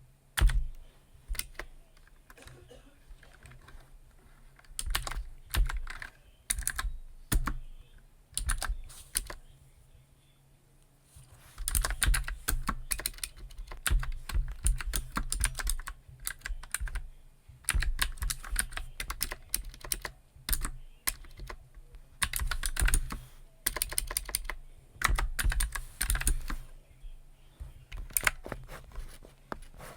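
Typing on a computer keyboard: a few scattered keystrokes at first, then runs of fast typing in bursts from about twelve seconds in.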